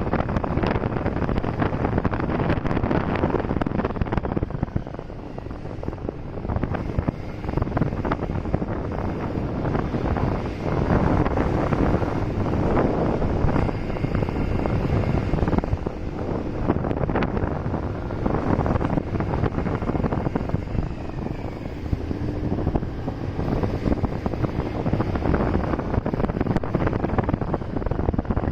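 Wind buffeting the microphone of a riding motorcycle, over the motorcycle's engine and road noise, with faint engine pitch rising and falling as the rider changes speed.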